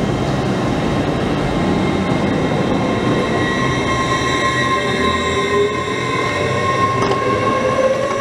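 LNER Class 800 Azuma train running past along the platform: a steady rumble of wheels on the rails, with a whine that grows and rises in pitch over the second half as the train picks up speed.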